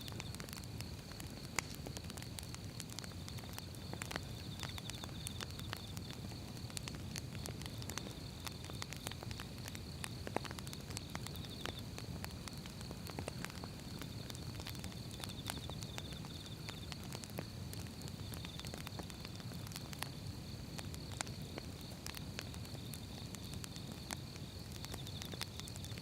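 Firewood burning, crackling with frequent irregular pops and snaps over a steady low rumble of the flames. A faint, steady high-pitched tone runs behind it.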